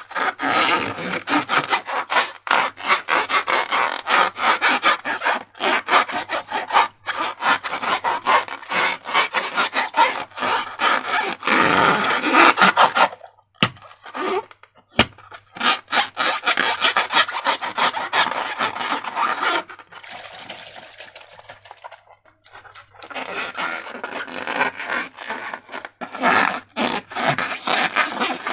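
Slime being squished and worked by hand: a dense run of sticky crackles and wet squelches. There is a short pause about halfway through and a quieter stretch later on.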